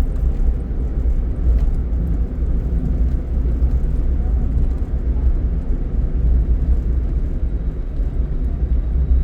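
Steady low rumble of a car being driven on a highway, the engine and tyre noise heard from inside the cabin.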